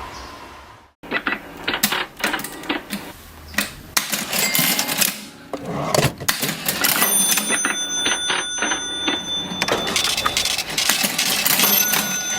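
Vintage mechanical cash register: keys and levers clacking and the works clattering in quick, irregular strokes. A ringing tone comes in about seven seconds in and again near the end.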